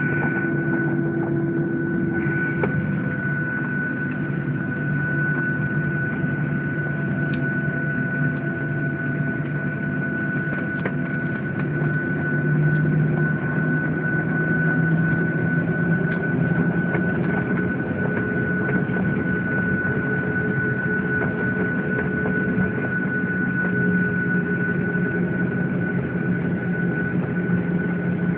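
Boeing 737-800's CFM56 jet engines and air system heard from inside the cabin: a steady drone with a constant high whine. The low engine tone steps up a little about 12 seconds in and again a few seconds later, as the engines spool up during start-up.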